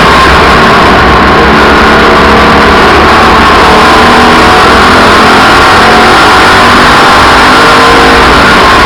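Several race cars running at speed around an oval track, their engines sounding together in a steady, overdriven wall of noise with pitches that shift up and down.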